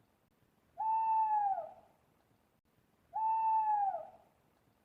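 Owl hooting: two long hoots a little over two seconds apart, each held on one pitch and dropping at the end.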